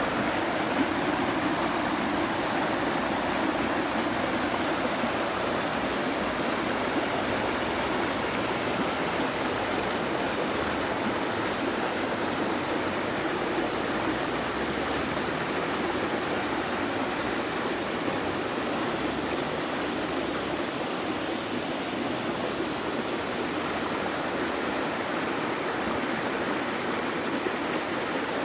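Water of a stream rushing and splashing over rocks: a steady, even rush of flowing water with no pauses.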